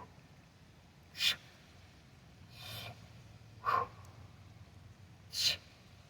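A man's forceful breaths of effort as he presses a heavy kettlebell: four short, sharp exhalations spaced about one to two seconds apart.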